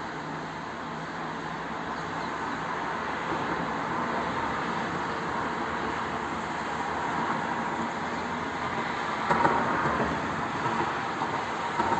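A truck running, a steady engine and road noise that slowly grows louder, with a brief louder burst about nine seconds in.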